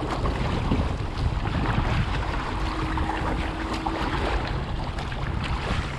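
Wind buffeting the microphone over water slapping and splashing against a kayak's hull in choppy water.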